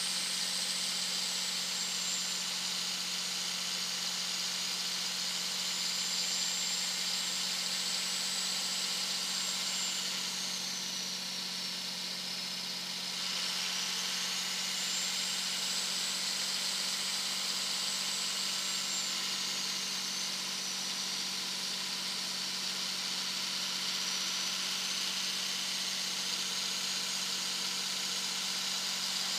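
Turbocharger whistle from a 2001 Dodge Ram 2500's 5.9-litre Cummins inline-six turbo diesel cruising at highway speed, over the steady drone of the engine and road. The high whistle drops in pitch and gets quieter about ten to thirteen seconds in, then climbs back. It sags again more gently around twenty-one seconds in.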